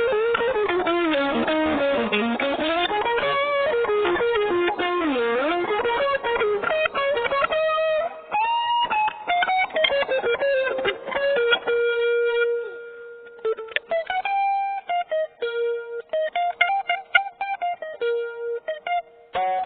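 Budget maple-body guitar played solo, with a hard tone. It plays fast runs of notes sweeping up and down, then, from about twelve seconds in, a choppy repeated note with short phrases above it.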